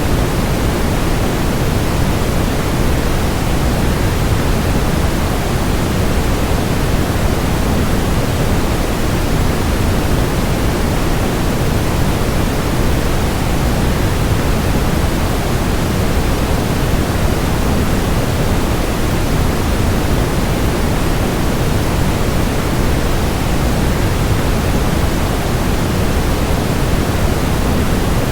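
Steady, even rushing noise, heaviest in the low end and unchanging: a waterfall sound blended with white noise.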